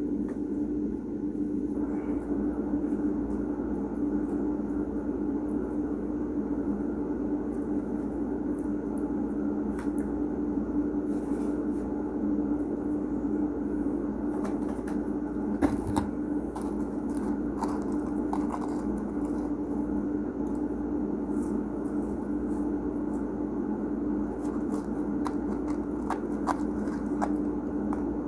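Person eating fast food: scattered small crunches, clicks and packaging crackles, with a sharp click about 16 seconds in, over a steady low hum.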